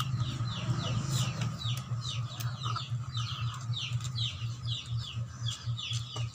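Birds peeping: short, high chirps that fall in pitch, several a second without a break, over a low steady hum.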